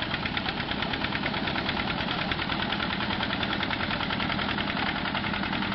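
Mini tractor engine running steadily, with a fast, even beat.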